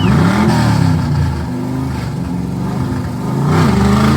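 Ford Mustang's engine revved hard through its exhaust, climbing and falling back just after the start, holding high, then climbing again near the end.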